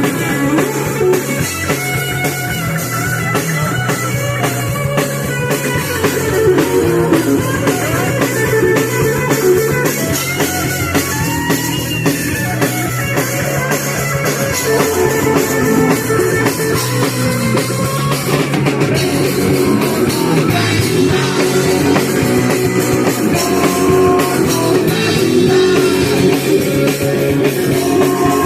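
Punk rock band playing live: loud distorted guitars, bass and drum kit driving along without a break.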